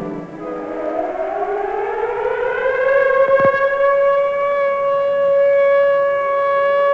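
Civil defense warning siren winding up from a low pitch into a steady high wail, sounding a tornado warning.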